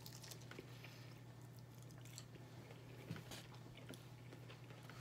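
Faint chewing and small mouth clicks of people eating, over a steady low hum.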